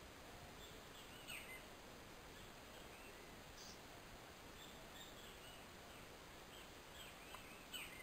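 Birds giving faint short chirps, scattered through, with the clearest about a second in and another near the end, over a faint steady hiss.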